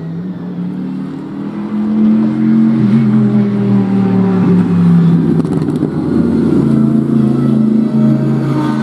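Racing car engine running hard on track, growing louder about two seconds in. The pitch sags through the middle and picks up again near six seconds.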